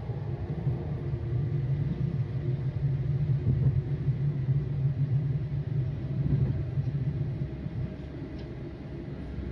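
PATCO rapid-transit train running between stations, heard from inside the car as a steady low rumble.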